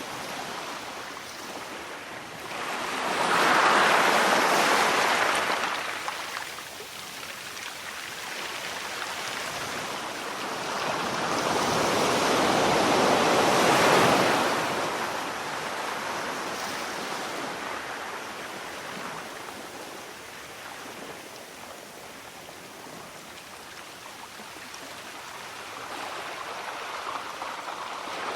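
Sea waves breaking and washing up the shore in slow swells: a loud surge a few seconds in, a longer one around the middle, and a smaller one near the end, with a steady wash between.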